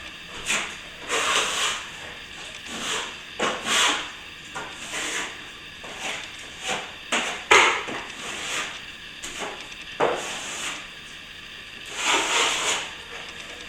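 Steel plastering trowel worked over wet plaster: irregular scraping strokes, each lasting about half a second to a second, with short pauses between.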